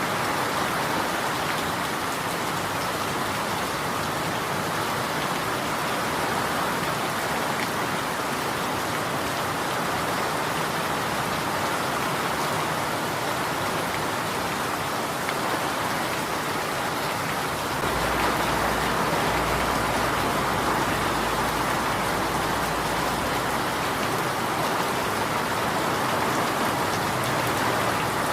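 Steady rain falling, an even dense patter. A low rumble joins in about two-thirds of the way through.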